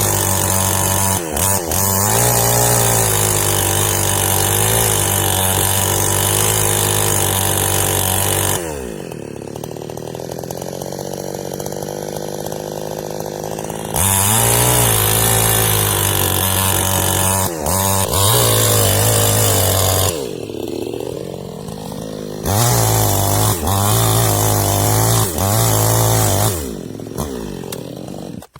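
New West 628 two-stroke chainsaw running at full throttle while felling a large tree. It drops back to idle twice for a few seconds before revving up again, and winds down near the end.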